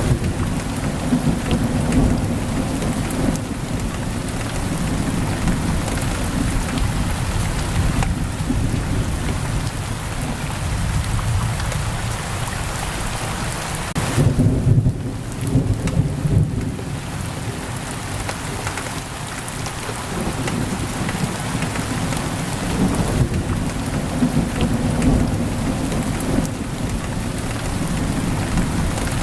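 Steady heavy rain falling, with low rolling thunder that swells several times, loudest about halfway through.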